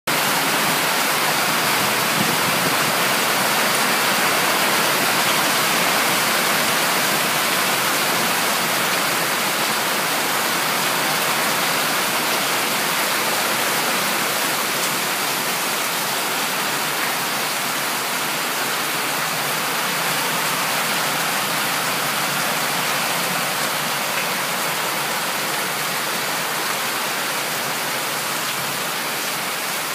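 Heavy rain pouring down in a steady, dense hiss, easing very slightly toward the end.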